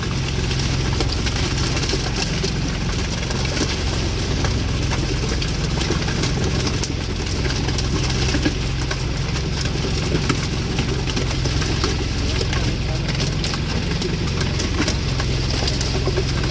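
A motor engine running steadily at idle, with an even low hum and no change in speed.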